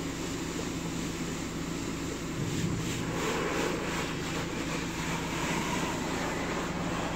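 D&S 5000 touch-free car wash running, with water spraying against the car, heard from inside the cabin over a steady low hum.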